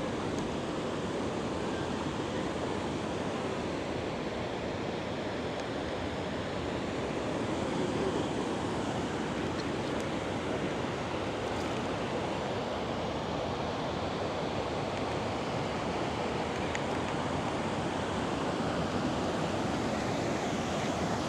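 River water rushing steadily over rocks, a continuous even roar of flowing water.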